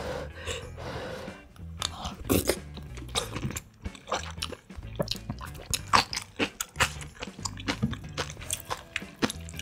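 Close-miked eating sounds: chewing a dumpling and spicy ramyun noodles, with many short wet mouth clicks and smacks.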